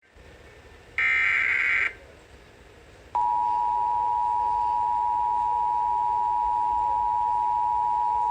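Emergency Alert System broadcast signal for a flash flood warning: about a second in, a short burst of high data tones (the SAME header), then after a pause of about a second a single steady alert tone starts and holds.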